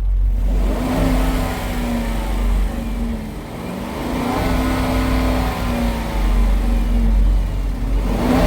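Dodge Durango's 5.7 Hemi V8 revved up and back down repeatedly from idle, about two full revs with a third starting at the end. The tick does not get louder or faster with the revs, which the owner takes as a sign of an exhaust leak rather than a lifter tick.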